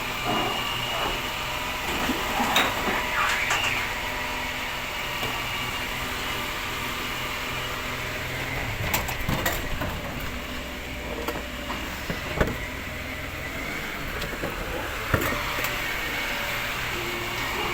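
Waste collection truck's engine running steadily, with several sharp knocks and clanks scattered through.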